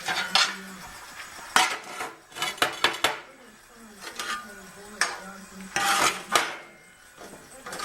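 Irregular metallic clanks and clatter: a dozen or so sharp knocks, some ringing briefly, as pieces of metal are handled and set down.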